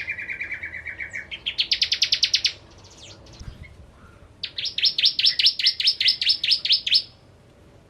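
Bar-winged prinia (prenjak jawa) singing: fast trills of sharp, evenly repeated notes, a short trill with a lower buzzy run at the start, another about a second and a half in, then after a pause a longer trill of about eight notes a second lasting over two seconds.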